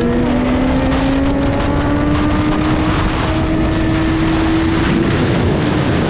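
BMW S1000RR inline-four engine pulling under steady throttle, its note rising slowly over the first five seconds and then holding, with wind rushing past.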